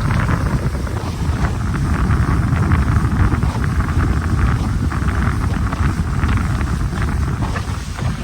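Bulldozer's diesel engine running under load, a steady low rumble, with wind buffeting the microphone.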